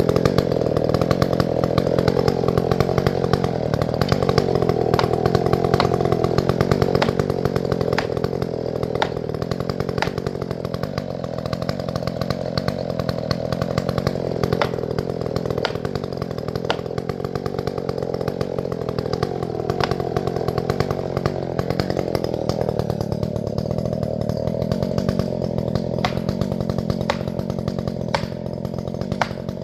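Chainsaw running under load through a grand fir trunk, its engine note sagging and recovering as the cut goes on, with a few sharp ticks along the way.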